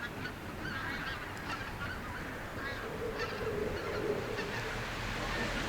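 A skein of geese flying in formation, honking over and over in short calls; a low steady drone comes in about halfway through.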